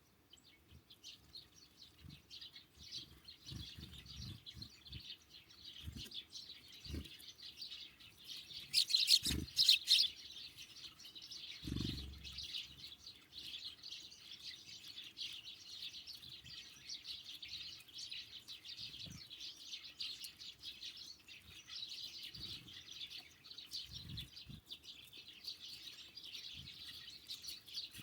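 Small songbirds chirping continuously in a dense chatter, with a louder burst of calls about nine seconds in. Scattered soft low thumps sound through it.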